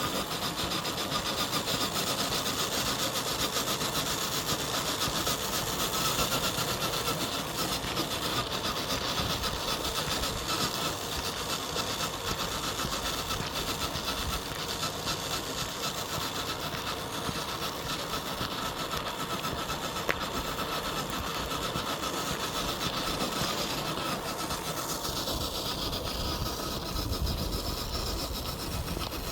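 FMS FJ40 RC crawler's electric motor and gearbox whirring steadily as it drives, with a faint whine that fades near the end.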